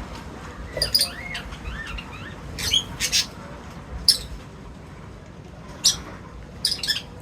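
Birds chirping at a feeding spot: short, sharp calls at irregular intervals, a few quieter gliding notes about a second in, and a quick cluster of calls near the end.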